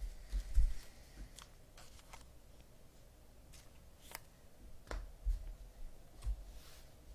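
Trading cards and card packs being handled on a table: scattered light clicks and flicks, with a few dull bumps against the table, loudest about half a second in and again around five seconds.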